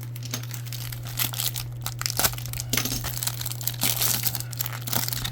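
Trading card pack wrapper crinkling and tearing as it is handled and opened, an irregular crackle.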